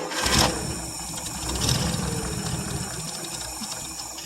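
1959 International B120 pickup's engine cranked and catching, then running on gas poured into the carburettor. Its fuel system isn't feeding it gas, so it runs only on what was poured in.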